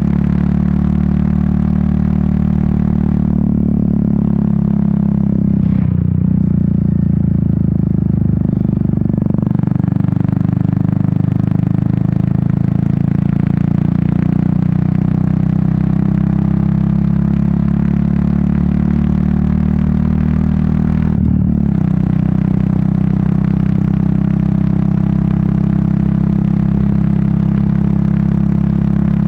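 Royal Enfield Meteor 350's single-cylinder engine and exhaust running steadily under way, with wind noise over the microphone. The engine note breaks briefly twice, and the wind noise fades for a few seconds early on.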